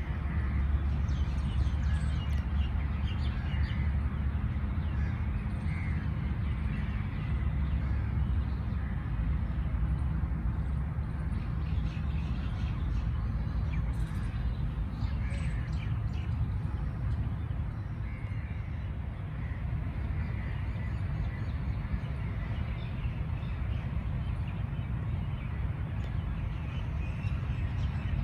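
Birds calling off and on, scattered short calls over a steady low rumble.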